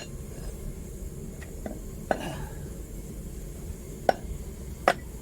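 A few sharp metallic knocks, spaced irregularly, some with a brief ring, as a freshly poured copper ingot that won't come out yet is tapped in its mould. A steady low rumble runs underneath.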